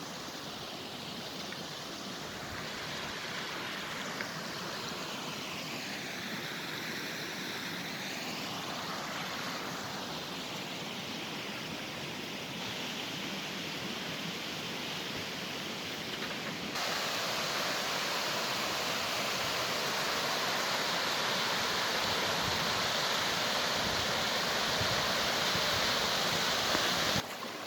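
Mountain stream water rushing in a steady hiss, which gets louder and brighter about 17 seconds in.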